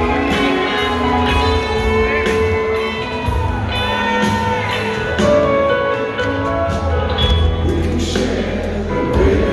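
Live rock band playing: electric guitar lines with bent, gliding notes over bass guitar and drums.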